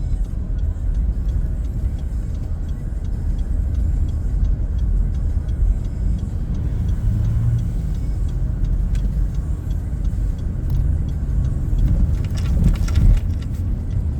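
Steady low road-and-engine rumble of a moving car, with faint regular ticking and a short cluster of clicks near the end.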